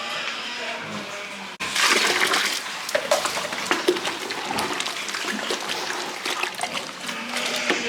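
Water rushing and splashing, with a sudden cut about one and a half seconds in, after which it comes louder, full of small irregular splashes.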